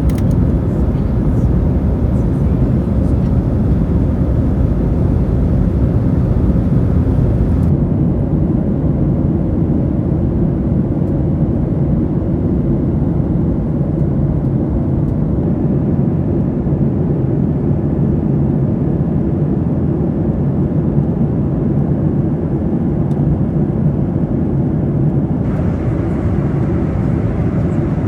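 Steady rumble of a Boeing 737-800 airliner's engines and airflow. The fainter hiss above it dims about eight seconds in and returns near the end.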